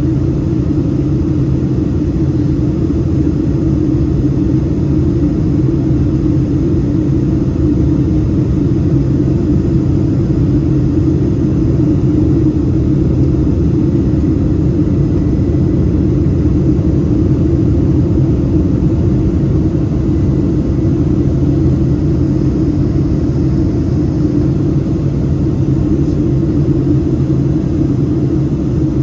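Boeing 767-300ER jet engines running at steady power: an even, loud rumble with a constant low hum that neither rises nor falls.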